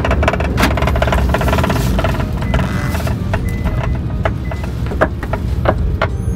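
Perodua Myvi's exhaust running with a loud, steady low rumble and irregular sharp clicks or knocks: the sound of an exhaust pipe the owner suspects has come loose.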